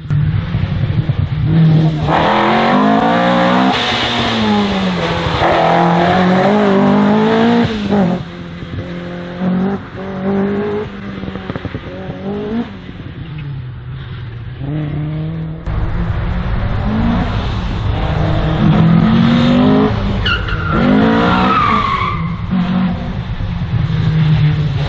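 Slalom race car engine revving hard and easing off over and over as the car accelerates and brakes between the cones, with tyres squealing in the turns.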